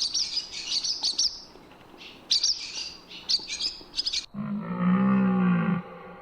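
A bird chirping in quick, high bursts, then a sudden switch to a different animal's low, drawn-out call with a rich buzzy tone, heard once and starting again near the end.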